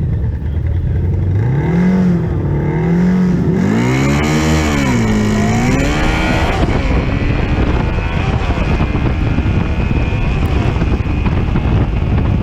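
Drag-racing motorcycle engine revved at the start line, then launched and accelerating hard, its pitch climbing and dropping back at each gear change. After about seven seconds a steady rush of wind noise over the microphone at speed covers the engine.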